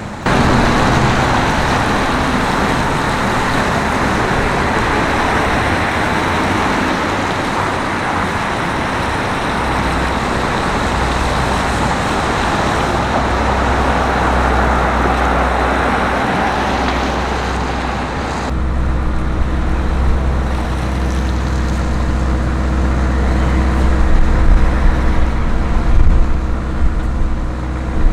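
Road traffic noise with vehicles passing. About two-thirds of the way in it cuts suddenly to a steady low engine hum close by, which grows louder and more uneven near the end.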